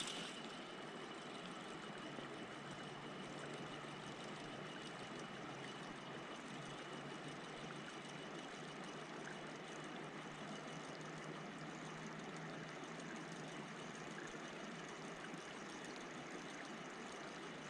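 Creek water flowing over a riffle: a steady, even rushing hiss with no breaks.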